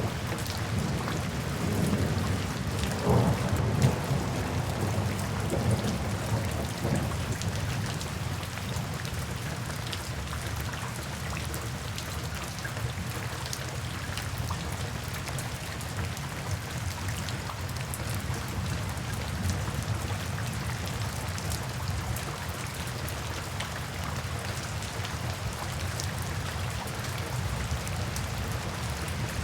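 Steady rain falling, an even hiss with many small drop ticks. A low rumble of thunder swells about two seconds in, is loudest around three to four seconds, and fades by about seven seconds.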